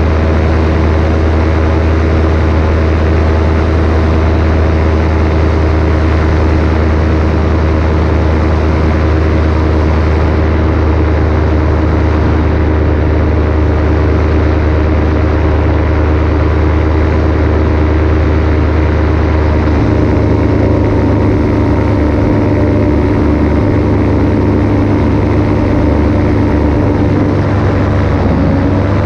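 Paramotor engine and propeller running steadily in flight, with wind rushing past. The engine note shifts slightly about two-thirds of the way through and bends briefly in pitch near the end.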